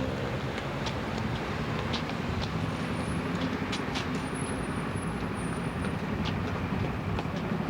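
Steady street traffic noise, a low rumble, with scattered small clicks and knocks.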